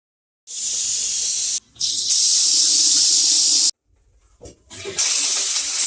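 High-pressure water jets from cleaning nozzles spraying into a washing machine tub, switched by a solenoid valve. It comes as a loud hiss in bursts of one to two seconds that start and stop abruptly: two close together, then another about five seconds in.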